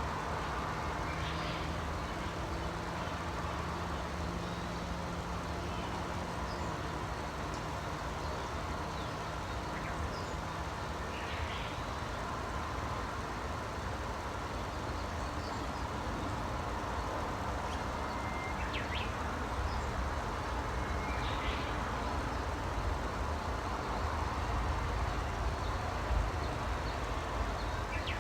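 Outdoor ambience dominated by a steady low rumble of distant vehicles, which grows louder near the end, with a faint hum that fades out about a third of the way in. A few short, high bird chirps sound now and then over it.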